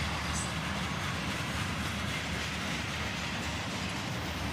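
CSX freight train rolling past, a steady rumble of wheels on the rails.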